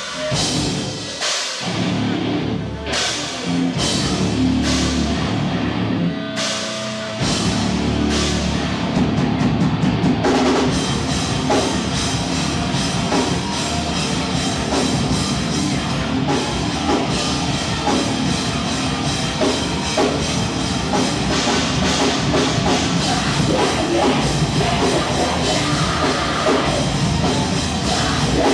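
A live rock band playing, drum kit prominent. It opens with spaced-out drum and cymbal hits over a held low bass, then the full band comes in at about seven seconds and keeps playing densely.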